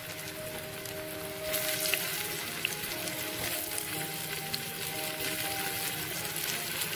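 Pieces of marinated taro root sizzling as they shallow-fry in hot oil in a nonstick pan, with a few light clicks as more pieces go in. The sizzle gets louder about a second and a half in. Soft background music with held notes plays under it.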